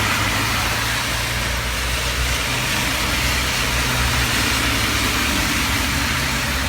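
Heavy rain falling steadily, over the low, steady hum of an idling vehicle engine.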